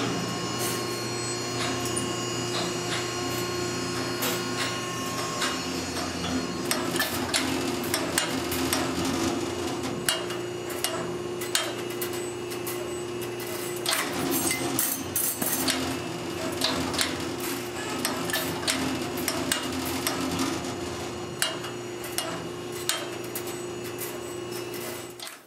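CNC wire forming machine running: a steady motor hum with many sharp metallic clicks and knocks at irregular intervals. A higher steady tone sounds for the first five seconds or so, then stops.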